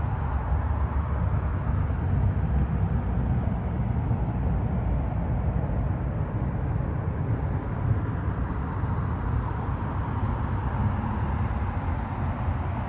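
Engine running steadily: a low rumble with an even hiss over it, holding the same level throughout.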